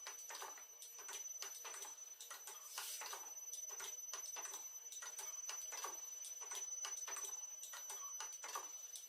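Faint, irregular clicking and ticking, several clicks a second with no steady rhythm, over a thin, steady high-pitched whine.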